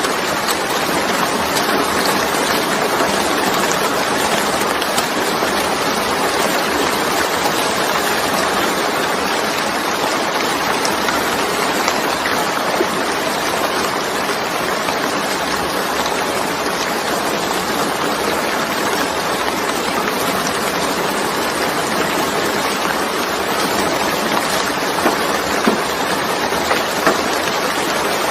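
Heavy rain falling, a steady loud hiss with scattered sharper drop hits.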